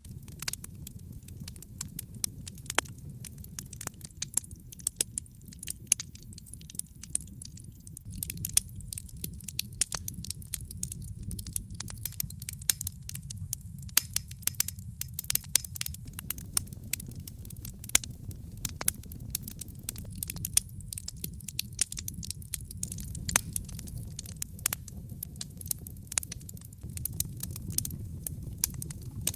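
Wood fire burning in a fireplace: a steady low rumble of the flames with frequent sharp, irregular crackles and pops throughout.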